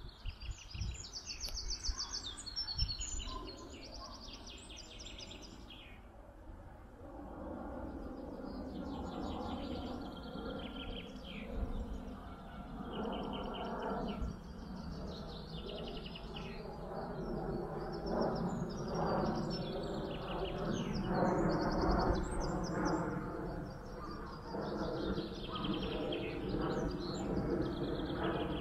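Several songbirds singing, their quick trilled phrases overlapping throughout. About a quarter of the way in, a steady background murmur joins underneath and slowly grows louder.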